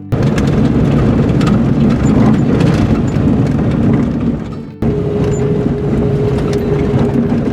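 Steady road and engine noise of a vehicle driving, broken by a sudden cut about five seconds in and resuming at once, with a steady hum added after the cut.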